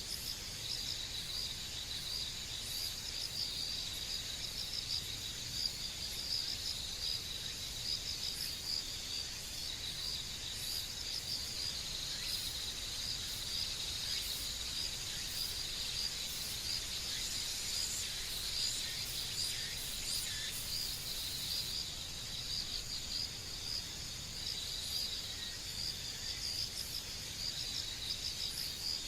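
Insects, likely crickets, trilling in a steady high-pitched chorus with a fine rapid pulse, over faint outdoor background noise.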